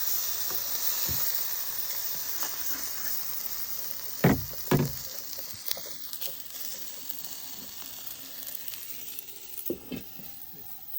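Salmon sizzling in a frying pan, a steady hiss that slowly dies down, with two loud knocks about half a second apart a little over four seconds in.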